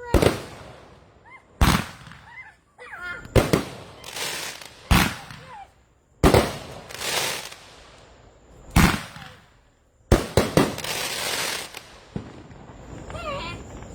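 Fireworks going off in a series of about seven loud bangs, roughly one every second and a half. Several bangs trail off into a crackling hiss, and a longer crackling burst comes near the end.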